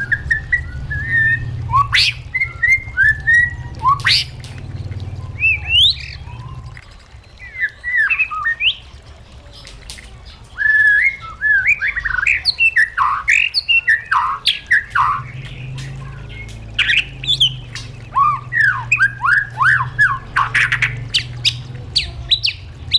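White-rumped shama singing a fast, varied song of whistles, sweeping notes and sharp clicks, with a pause of about three seconds partway through.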